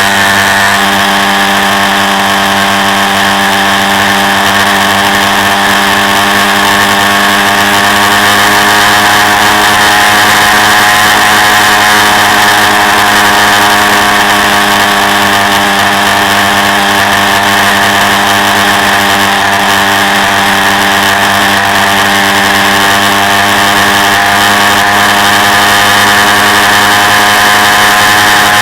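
Quad bike engine running steadily, heard from on board, its pitch drifting only slightly up and down.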